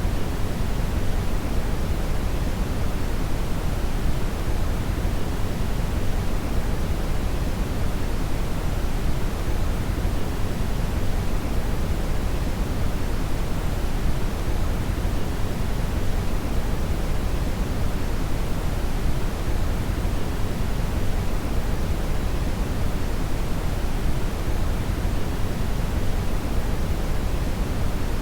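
Synthetic brown noise: a steady, deep, even hiss with most of its energy in the low end, unchanging throughout.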